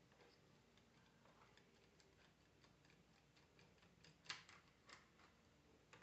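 Near silence with faint, scattered light clicks and ticks; two sharper clicks come a little over four and about five seconds in.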